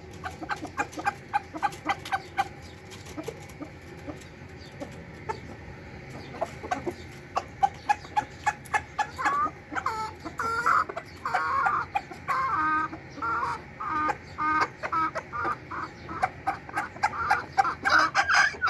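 Aseel chickens clucking, with many short sharp taps throughout; from about halfway the clucks come in a quick repeated run.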